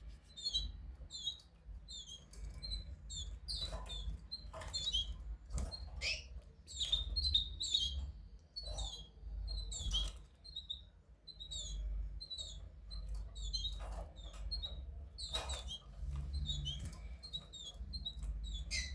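Goldfinch × canary hybrid finches singing: a run of quick, high twittering notes, with a few sharp clicks and a steady low hum underneath.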